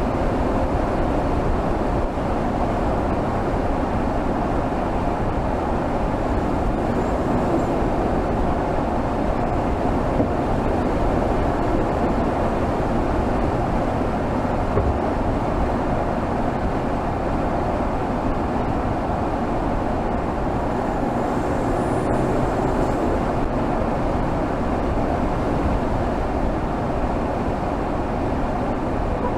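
Mercedes GLS 450's 3.0-litre turbocharged inline-six, heard from under the hood while cruising steadily at highway speed, mixed with a constant rush of road noise. The sound stays even throughout, with no revving or gear changes.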